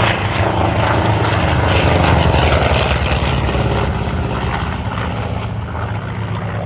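Douglas A-1 Skyraider's 2,700-horsepower Wright R-3350 eighteen-cylinder radial engine and propeller in a display flyby, loud, building to its peak about two seconds in and then slowly fading.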